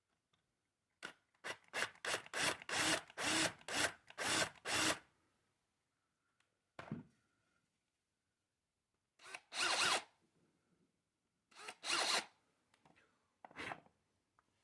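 Hand-tool strokes scraping and rasping into a basswood handle: a quick run of about nine strokes, two a second, then four single strokes spaced a couple of seconds apart.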